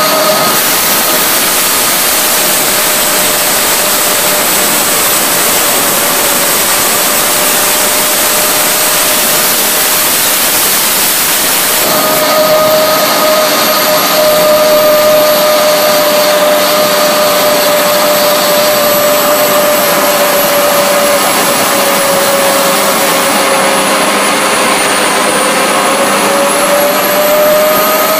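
Homemade turbojet with a centrifugal impeller and annular combustor running at full noise, a loud rushing roar under a steady turbine whine. The whine fades early on and comes back about twelve seconds in. Near the end its pitch sags, then climbs again as the engine speeds up.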